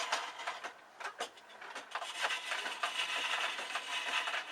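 Wood being cut on a foot-powered treadle lathe: scattered clicks and knocks from the treadle mechanism, then from about two seconds in a steady hiss of the turning tool cutting the spinning wood.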